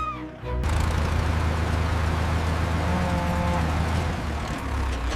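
Engine running steadily with a low hum and a loud hiss, starting about half a second in. A brief higher tone sounds about three seconds in.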